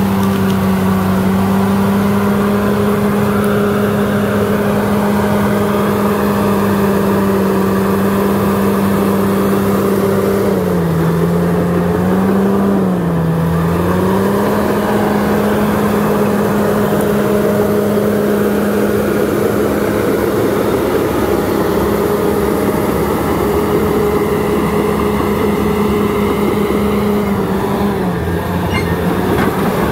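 Crawler bulldozer's diesel engine running steadily at high revs. Its pitch sags briefly twice, about eleven seconds in and again near the end, before picking back up.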